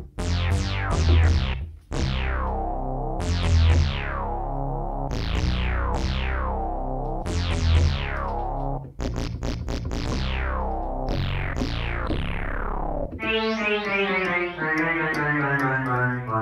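Yamaha PSR-175 portable keyboard playing a synthesizer preset: a rhythmic run of notes, each starting bright and quickly sweeping down to a duller tone, over a low bass line, in the style of 90s acid. About 13 seconds in it changes to a different sound whose pitch glides up and down.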